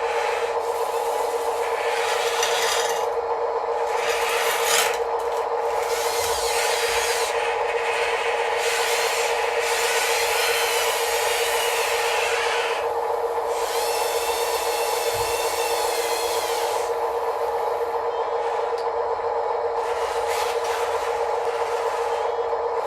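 Small RC construction machines (excavators, dump trucks and a loader) working together: a steady electric motor whine, with bursts of higher rasping noise that start and stop every second or two as the machines move and work the soil, one of them with a whining pitch about two-thirds of the way through.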